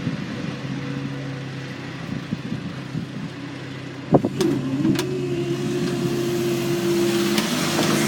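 Road vehicle engines running at the crossing, with a sharp knock about four seconds in and an engine pulling away with rising pitch near the end.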